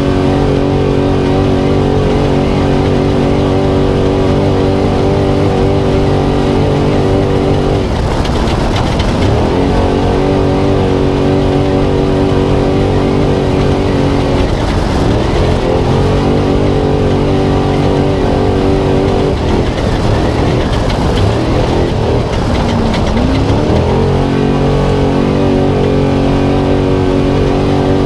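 Spec Trophy Truck's V8 engine at full race pace, heard onboard, holding steady high revs and dipping then climbing back about four times as the throttle comes off and goes back on, over rushing wind and off-road noise.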